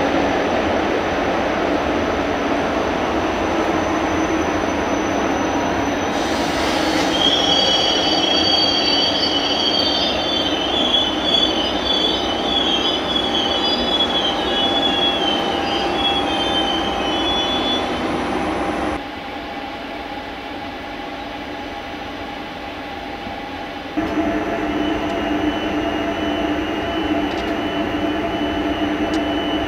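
Train running on rails with a continuous rumble; about seven seconds in, steel wheels or brakes set up a high, wavering squeal that lasts about ten seconds. Near twenty seconds in the sound drops suddenly to a quieter rumble, then jumps back up about five seconds later.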